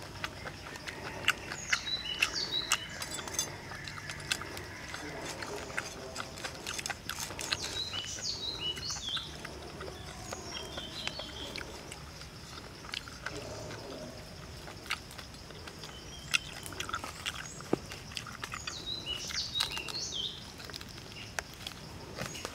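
Close-up eating sounds: biting and chewing roast pork skin, with many sharp wet clicks and crackles. Birds chirp in short bursts in the background, over a thin steady high tone.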